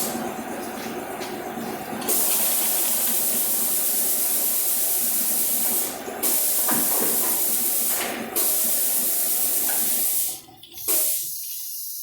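Three long bursts of loud, steady hissing from a shop tool, each cut off abruptly with a short pause between.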